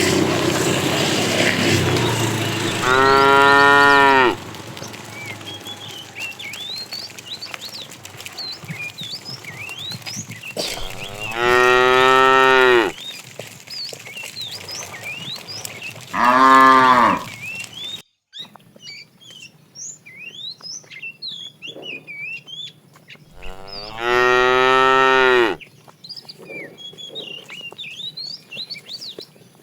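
Cattle mooing: four long, loud moos spaced several seconds apart.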